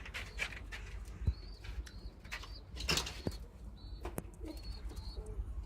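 Homing pigeons moving about a loft: scattered wing flaps and scuffles, a few soft coos and short high chirps.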